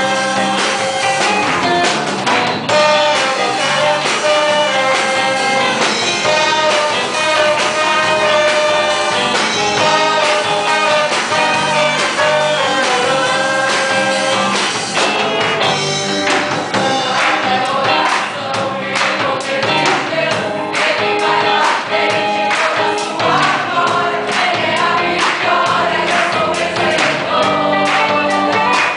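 A youth choir singing a Brazilian gospel hymn with a band, tambourine shaking along to the beat.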